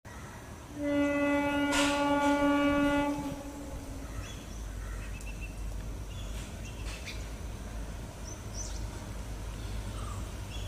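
Train horn sounding one long steady blast of about two and a half seconds, followed by the low rumble of the approaching locomotive. A few short high chirps come through over the rumble.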